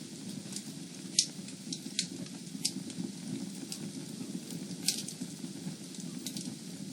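Fire in a fireplace crackling: a steady low rush of flames with scattered sharp pops, the loudest about a second in and another near five seconds.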